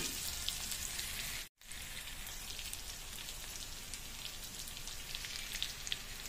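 Pork pieces with onion, garlic and ginger frying in a wok: a steady sizzle with scattered pops and crackles. The sound cuts out for a moment about a second and a half in.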